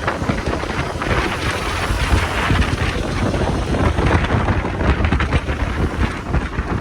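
Wind rushing over the microphone of a moving motorcycle, loud and uneven, with the low rumble of the ride underneath.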